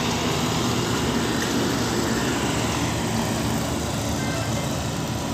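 Steady engine and tyre noise of road traffic, easing slightly quieter toward the end.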